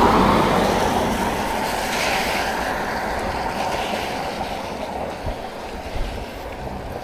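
A vehicle passing with a rushing noise, loudest at the start and slowly fading away.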